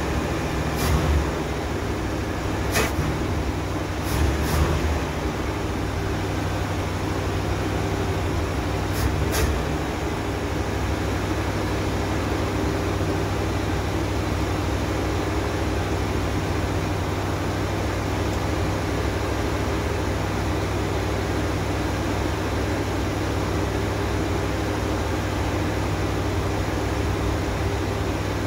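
1968 Ford Galaxie's 390 four-barrel V8 running on a fast idle, air cleaner off. It is a little uneven for the first ten seconds, with a few short clicks or knocks, then settles to a steady run.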